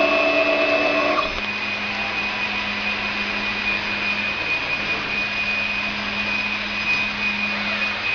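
CNC cutting and engraving machine running: a steady high whine from the spindle over even machine noise and a low hum. A second, lower set of tones cuts off about a second in.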